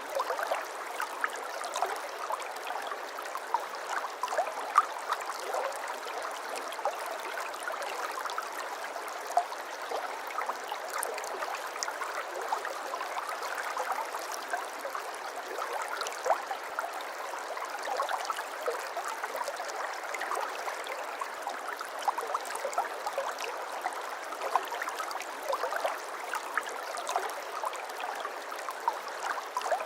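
Stream water flowing and trickling steadily, with many small bright splashes and gurgles over an even rushing.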